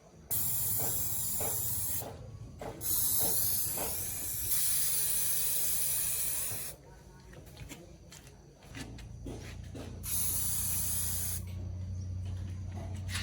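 Pressurised spray hissing in three long bursts, the middle one lasting about four seconds, over a steady low hum that grows louder in the second half.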